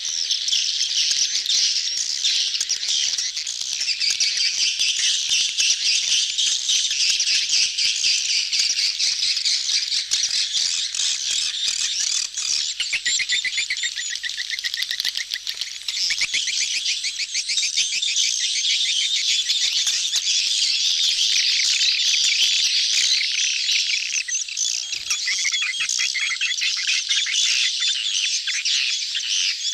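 Dense chorus of edible-nest swiftlets, many rapid high chattering calls and trills overlapping without a break: a colony in courtship.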